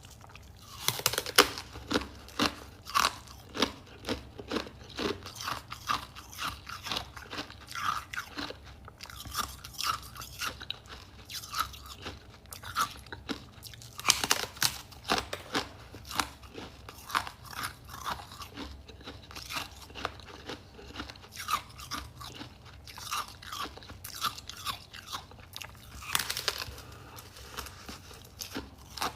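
A person biting and chewing crispy freezer frost close to the microphone: a steady run of sharp crunches, one or two a second, with louder bites about a second in, halfway through and near the end.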